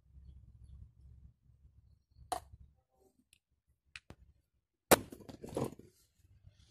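A few light clicks, then a sharp knock about five seconds in followed by about a second of clattering, like things being handled or set down.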